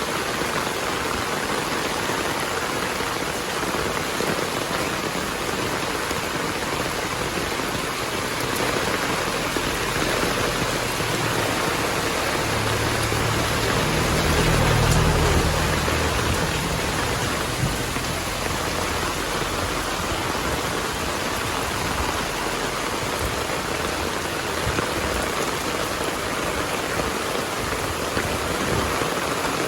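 Heavy rain falling steadily. About halfway through, a low rumble of thunder swells for a few seconds and fades.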